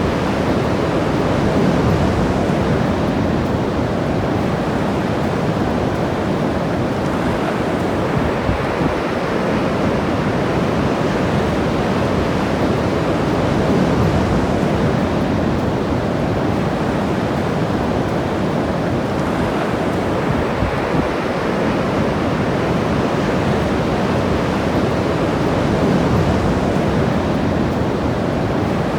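Ocean surf washing steadily onto a beach, swelling every several seconds as waves break.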